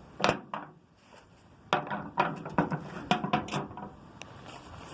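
Heavy glass paperweights being handled and set down, knocking and clinking against a hard surface and each other: two knocks in the first second, then a quick flurry of clinks in the middle.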